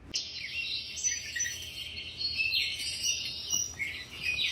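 Small birds chirping, many short overlapping high calls.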